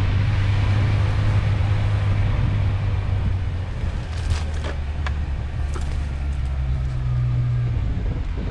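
Suzuki Grand Vitara engine running at low revs, a steady low hum that briefly rises in pitch near the end. A few light knocks come in the middle.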